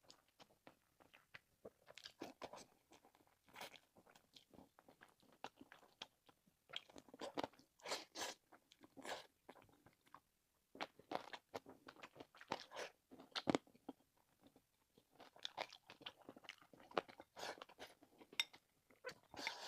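Close-miked chewing and biting of food, with irregular sharp clicks and smacks and a short pause about ten seconds in.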